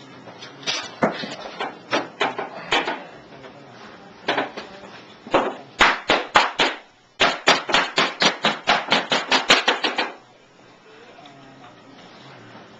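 A series of sharp hammer taps: scattered strikes at first, then a fast, even run of about five taps a second for around three seconds that stops suddenly, with quiet after.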